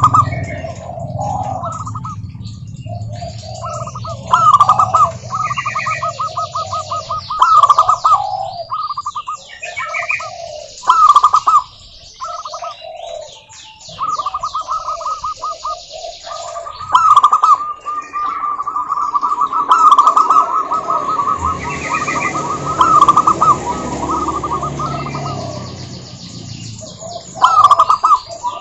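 Zebra doves calling: repeated bursts of fast, trilling coos, one phrase after another. Other small birds chirp faintly in the background.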